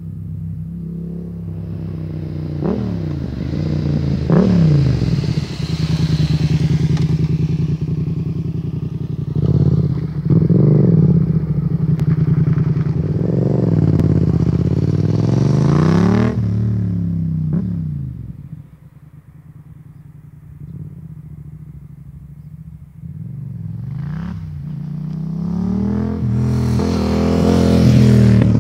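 Yamaha MT-07's 689 cc parallel-twin engine running through a MIVV GP carbon aftermarket exhaust, its revs repeatedly rising and falling. It drops to a quieter, lower note a little past the middle, then the revs build again near the end.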